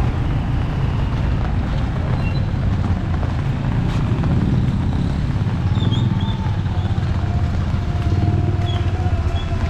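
Street traffic: a motor vehicle engine running close by over a steady, dense low noise.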